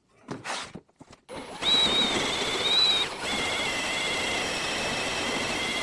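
Cordless drill running under load, a steady whine over a grinding hiss, starting about a second and a half in. It briefly dips around three seconds and then runs on at a slightly lower level.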